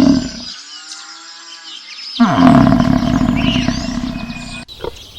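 A big cat's roar: one long, loud roar that starts with a falling growl about two seconds in and fades away until it cuts off abruptly near the end.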